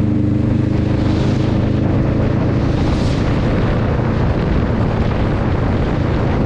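Wind rumbling and buffeting hard on the microphone of a moving motorcycle, with the hiss of tyres on a wet road and the Honda Rebel 500's parallel-twin engine running underneath.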